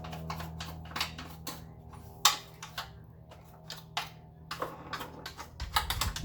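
Irregular clicks and light knocks of plastic vacuum cleaner parts being handled, the loudest sharp knock about two seconds in, over a faint steady low hum.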